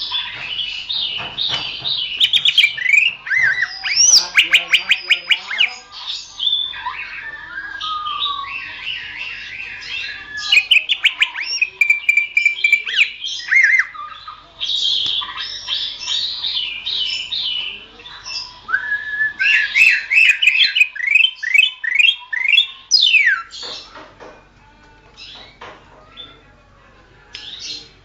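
Green leafbird (cucak ijo) singing a long, varied song of rapid whistled trills, chatters and sweeping notes. About three-quarters of the way through the song thins to scattered, quieter notes.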